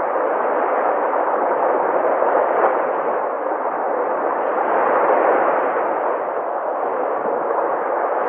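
Sea waves breaking and washing in a steady roar of surf that swells a little in loudness now and then.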